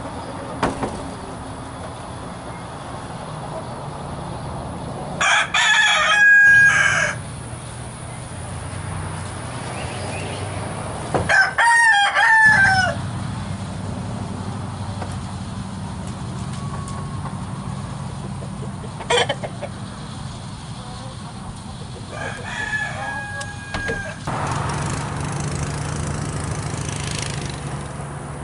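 Roosters crowing in a chicken coop: two loud crows, about five and eleven seconds in, and a fainter one about twenty-two seconds in, with hens clucking between them.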